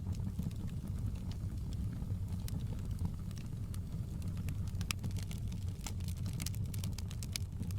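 Wood fire crackling: sharp pops and snaps over a steady low rumble, with the pops coming thicker in the second half.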